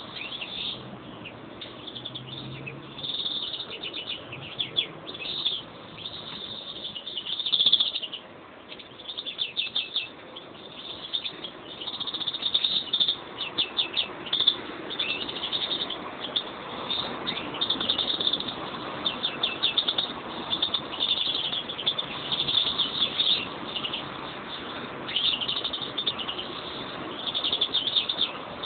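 A pair of European greenfinches singing: continuous high chirps and quick rattling trills, with brief pauses between phrases.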